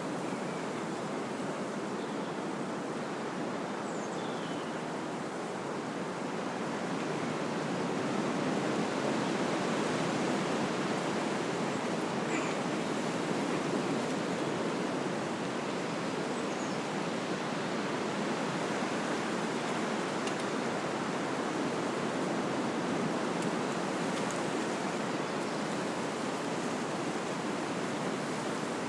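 Wind blowing through trees: a steady rushing of leaves and branches that swells a little about eight seconds in and eases back after about fifteen.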